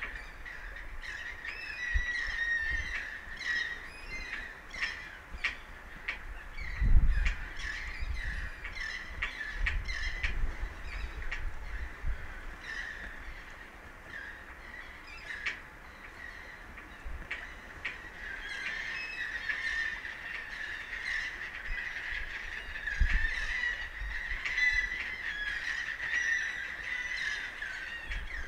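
Many birds calling over and over in short, honking squawks, over a steady hiss. There are dull low thuds about seven seconds in and again near the end.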